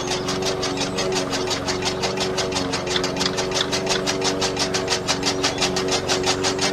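Tractor engine running steadily with an even, rapid chugging beat of about eight strokes a second.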